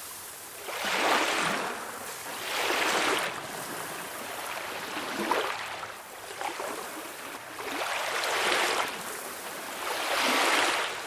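Small sea waves washing onto a shore, a swell of surf about every two seconds, some stronger than others.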